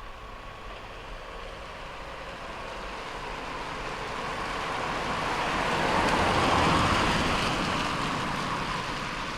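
A rushing noise like road traffic that builds for about six seconds and then eases off slightly.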